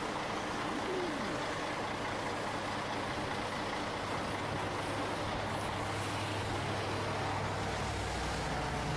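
Crane truck's engine running steadily with a low hum and a continuous wash of outdoor noise; the hum drops to a deeper note near the end.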